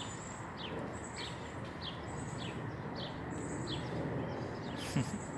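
A bird giving short downslurred chirps about twice a second, over steady outdoor background noise and a faint high-pitched whine.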